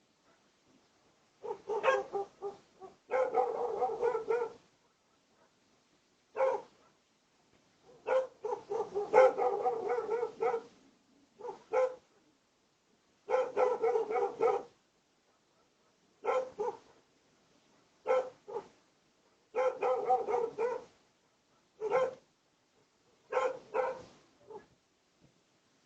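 A dog barking in repeated bouts of one to several quick barks, with short silent gaps between bouts.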